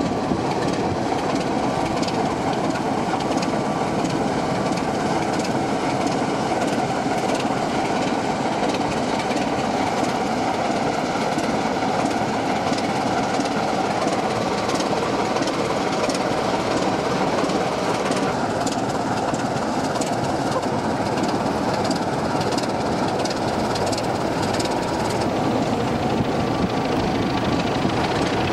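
OO gauge model diesel locomotive running on its track, with a steady motor whir and the wheels clicking over the rail joints.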